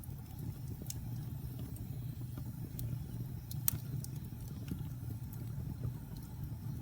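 Log fire burning in a fireplace: a steady low rumble of flames with scattered sharp crackles and pops, the loudest pop a little past halfway.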